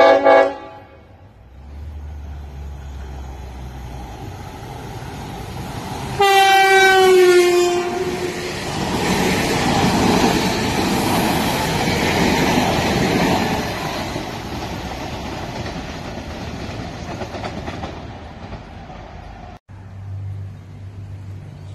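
Tilt Train sounding its horn, a short blast and then a longer, louder one about six seconds in that drops in pitch as it goes by. The train then runs past the platform at speed with a rushing rumble of wheels on rail, fading away until the sound cuts off near the end.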